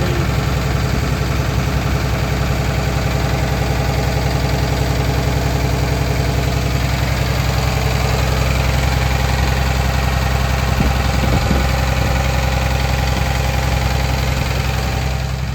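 2009 Blue Bird front-engine school bus's diesel engine idling steadily.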